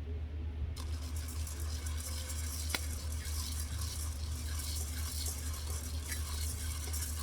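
Food sizzling and crackling on a hot pan, starting abruptly about a second in, over a steady low hum, with a single sharp click near the middle.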